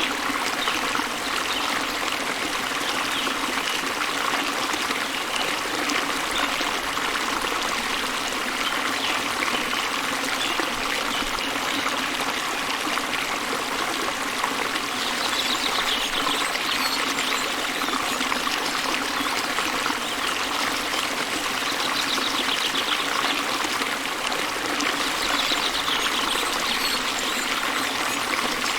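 Waterfall: a steady, even rush of falling water. Faint high bird trills come through a few times in the second half.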